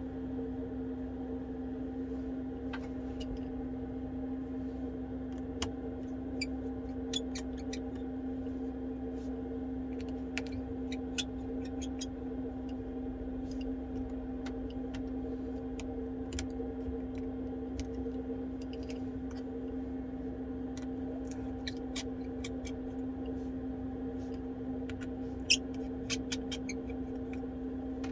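Scattered small clicks and taps of tools on an iPhone 12 as its display flex connectors are taken off, with one louder click near the end, over a steady hum.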